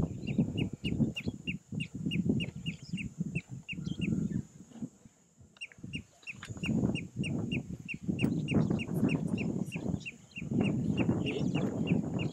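A bird repeating a short, falling chirp about three times a second, with a break of a couple of seconds about a third of the way in. Under it runs a louder, uneven low rumble.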